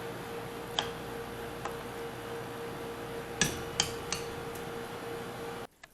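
A few sharp clicks or knocks over a steady hiss and a low hum, the loudest pair about three and a half seconds in; everything cuts off abruptly near the end.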